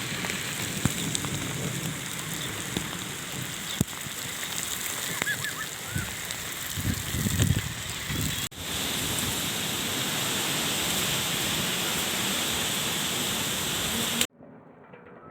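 Heavy rain pouring down and pattering on surfaces, with scattered sharp drips and low gusts of wind buffeting the microphone around the middle. The rain cuts off abruptly about a second before the end.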